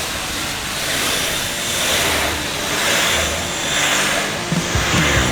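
Pressure washer jet blasting block paving: a loud, steady spray hiss that swells and eases about once a second. Background music with a beat comes in near the end.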